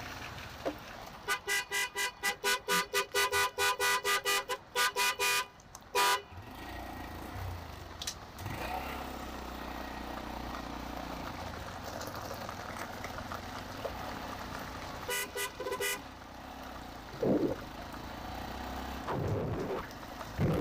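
A vehicle horn honking in a long run of rapid short toots, about four a second, for roughly four seconds, then a few more quick toots later on, over a low steady engine and traffic rumble.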